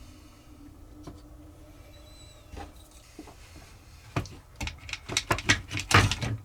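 Small clicks and taps of tools and parts handled on a workbench during soldering, coming as a quick irregular run in the last two seconds or so after a faint steady hum.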